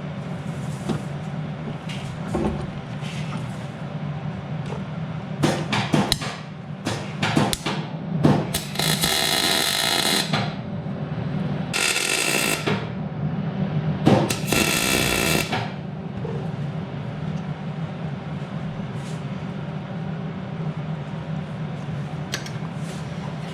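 Tack welding: three short bursts of welding crackle, each lasting one to two seconds, around the middle. Before them come a few sharp knocks of metal being handled, and a steady low hum runs underneath.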